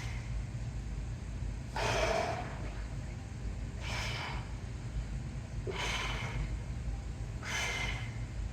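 A man breathing out hard, four forceful exhales about two seconds apart, in time with weightlifting reps, over a steady low hum.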